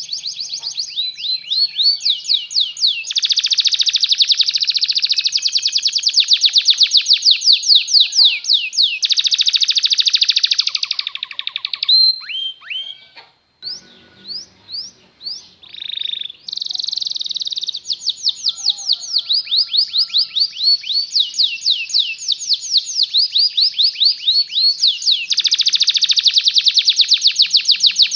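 Canary singing a long song of rapid rolling trills, one trill after another at changing speeds, high and bright. About halfway there is a short break of a few separate notes before the trills start up again.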